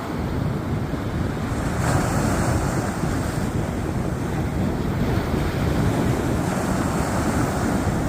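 Sea waves rushing onto the shore in a steady wash of surf, swelling louder about two seconds in, with wind buffeting the microphone.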